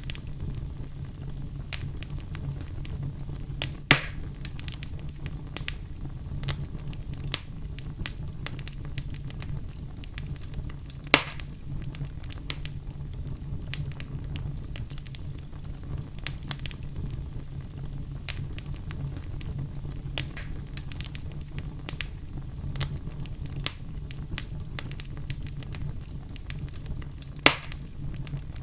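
Wood fire burning in a fireplace: a steady low rumble with constant crackling and three louder pops, about four seconds in, about eleven seconds in and near the end.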